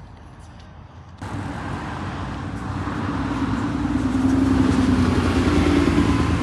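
Motor vehicle running close by: engine hum and road noise that start suddenly and grow steadily louder over several seconds.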